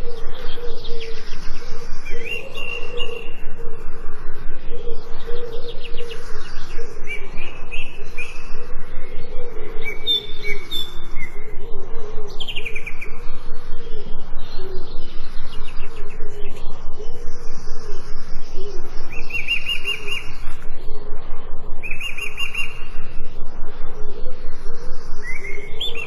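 Songbirds chirping and singing in short high notes and trills, with a falling whistled note about halfway through. Underneath runs a steady, fast pulsing sound.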